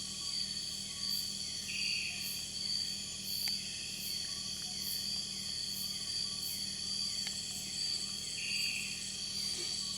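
Night insect chorus in Borneo lowland rainforest: a steady high-pitched drone with regular pulsing chirps layered over it, typical of crickets and katydids.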